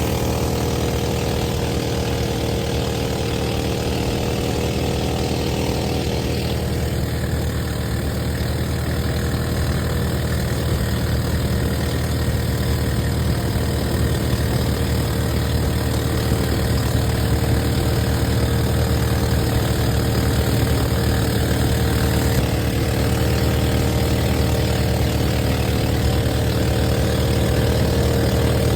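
An engine running with a steady drone, holding an even pitch and loudness throughout.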